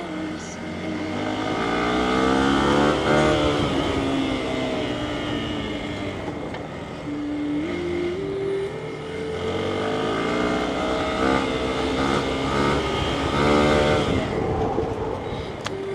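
Hero XPulse 200's single-cylinder four-stroke engine under way, its note climbing as the throttle opens, dropping back and climbing again several times, with a jump in pitch about halfway through.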